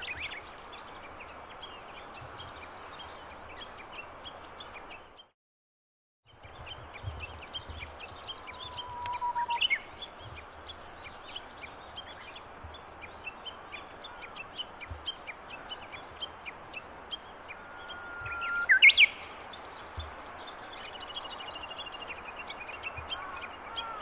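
Japanese bush warbler singing its 'hō-hokekyo' song twice: a long held whistle that breaks into a quick, sharply rising phrase, the second time loudest. Small chirps of other birds run through a steady outdoor hiss, and the sound cuts out for about a second near the start.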